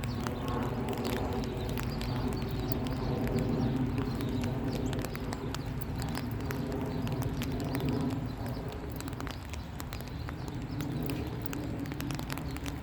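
Rain falling steadily, with frequent sharp taps of drops close by.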